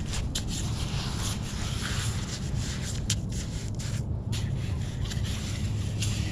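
Homemade sand scoop, made from a Sweet Baby Ray's bottle, digging in wet beach sand: several short scrapes over a steady low background rumble.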